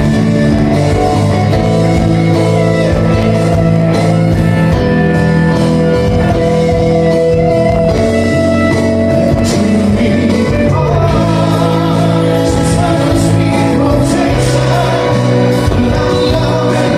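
Live band playing a song, with a singer's voice over the instruments.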